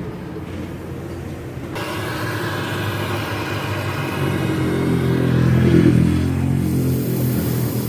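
Mitsubishi Canter truck's diesel engine running through an aftermarket 'wolf-sound' exhaust, revved up about halfway through to a peak near six seconds, then easing back.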